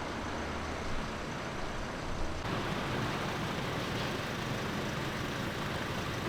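Steady road and engine noise of a moving vehicle heard from inside the cabin, the noise changing character about two and a half seconds in.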